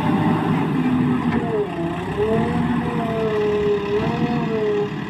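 Heavy diesel machinery running steadily. From about a second and a half in, a drawn-out whine dips in pitch, rises again and wavers until near the end.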